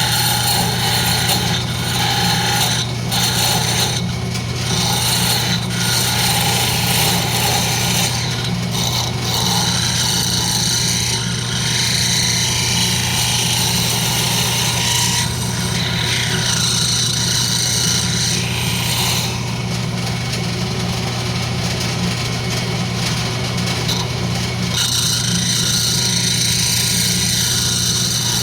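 Wood lathe running with a steady motor hum while a turning tool cuts spinning rosewood, the scraping hiss of the cut coming and going as the tool is worked along the piece.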